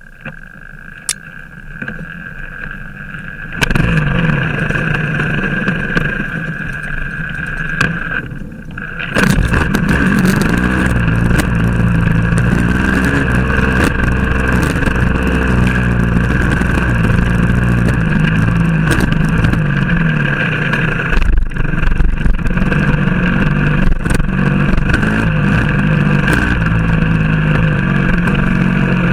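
Motorcycle engine running under way, its note shifting up and down with the throttle; it gets louder about three and a half seconds in and again about nine seconds in, then holds steady.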